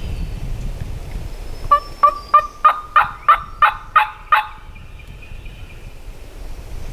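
A run of about nine turkey yelps, evenly spaced at roughly three a second, starting a little under two seconds in and lasting nearly three seconds.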